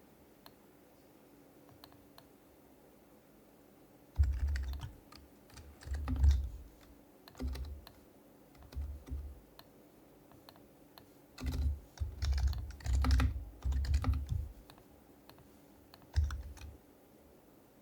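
Typing in short bursts on an HHKB Professional Hybrid Type-S keyboard with silenced Topre switches: soft, muted keystrokes with a low thud. It starts about four seconds in, and the typing comes in several runs with pauses between.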